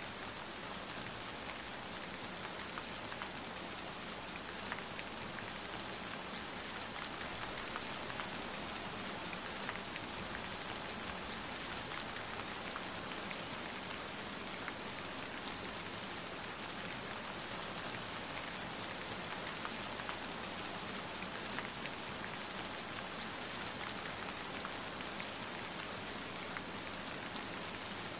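Gentle rain falling steadily, with many small drop ticks scattered through it.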